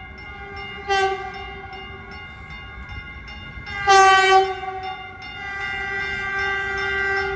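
Caltrain passenger train approaching the platform and sounding its multi-note air horn chord: a short blast about a second in, a louder, longer blast about four seconds in, then the horn held steadily toward the end.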